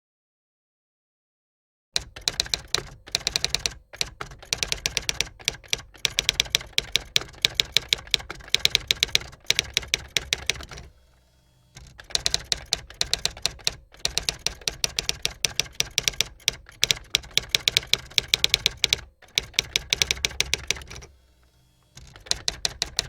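Rapid key-typing clicks, several a second, in runs of a few seconds broken by short pauses; the typing starts about two seconds in, after silence.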